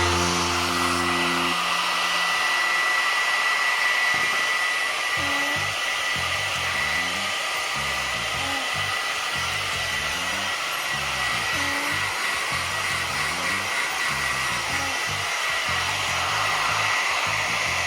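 Handheld hair dryer blowing steadily, with a thin high whine over the rush of air, drying off a wet macaw after her bath.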